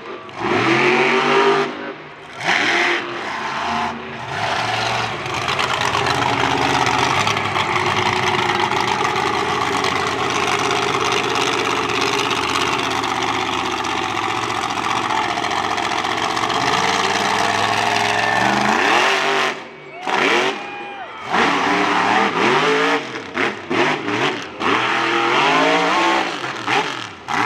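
Monster truck engine running loud at high revs, with repeated rising and falling revs at the start and near the end and a long steady high-rpm stretch in the middle with a brief drop just before it picks up again.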